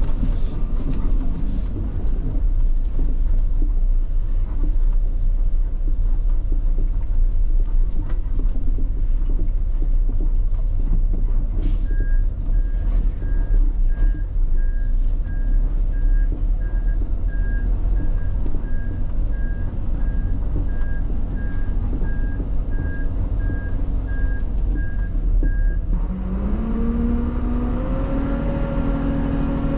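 Heavy diesel truck engine running with a steady low rumble, a few sharp metal knocks early on. About twelve seconds in, a reversing beeper starts, repeating evenly for about fourteen seconds, then stops as the engine revs up and holds at a higher pitch.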